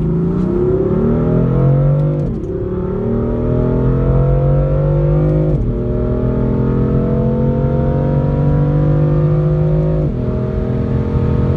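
Car engine accelerating hard through the gears: its pitch climbs, then drops sharply at three quick upshifts, about two, five and a half, and ten seconds in.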